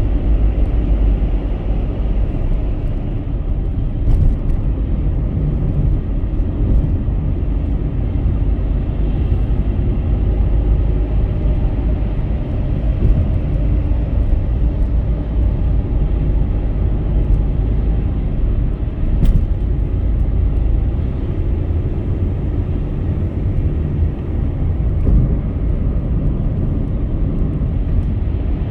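Car driving at highway speed: a steady low rumble of road and engine noise, with a couple of faint clicks.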